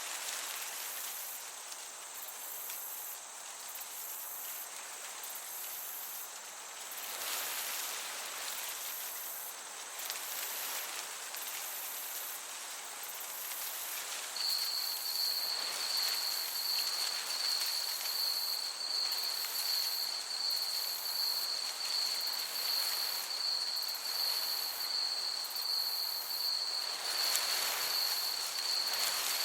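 Summer meadow ambience: crickets chirping in a steady rhythm over the soft hiss of a breeze, with a bright, continuous cricket trill joining about halfway through.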